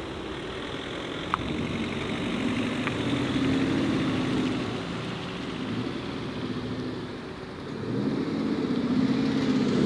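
Engines of modified cars driving past, the engine sound swelling about three seconds in and again, louder, near the end. A short sharp click about a second and a half in.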